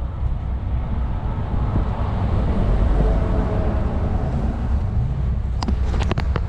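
Wind buffeting the microphone over a steady vehicle rumble, during a snowstorm roadside recovery. Near the end comes a quick run of sharp clicks.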